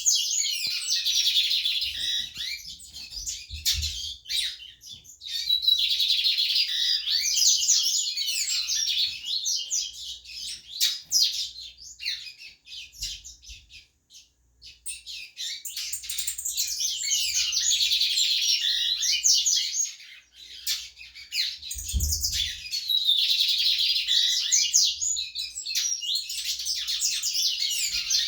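Caged Sporophila seedeaters (the coleiro, papa-capim and bigodinho kinds) singing: long phrases of rapid high notes, broken by a couple of short pauses.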